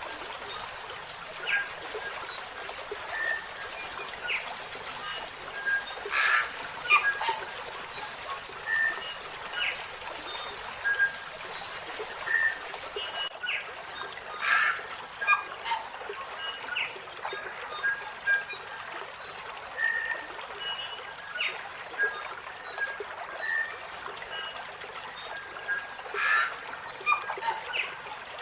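Small songbirds chirping in short, scattered calls over a steady trickle of running water.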